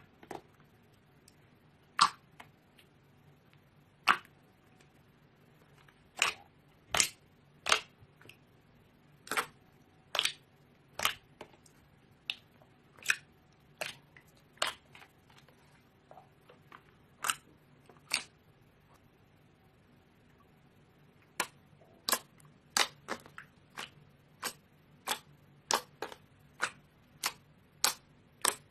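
Slime being pressed and worked, its trapped air pockets popping in sharp, irregular clicks, with a pause of a few seconds about two-thirds of the way through.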